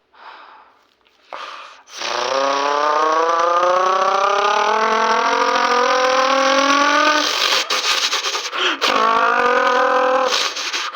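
A person imitating a car engine with their mouth. Two short hisses come first, then a long buzzing engine note that climbs slowly in pitch for about five seconds like a car revving up. It breaks off with a few clicks, then a shorter second engine note follows.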